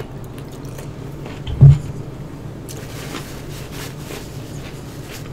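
Crunchy chewing of a bitten-off mouthful of raw cucumber, close to the microphone, with one dull thump about a second and a half in. A steady low hum lies underneath.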